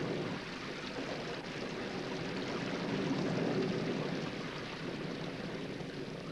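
Audience applause, a dense even clatter that slowly fades.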